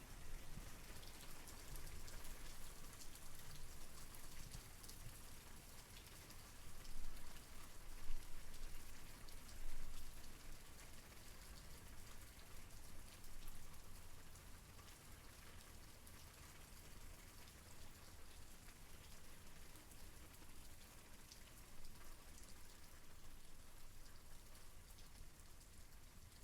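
Steady rain falling, an even hiss of drops with many small individual drop hits and a low rumble underneath, growing louder for a few seconds about a quarter of the way in before settling back.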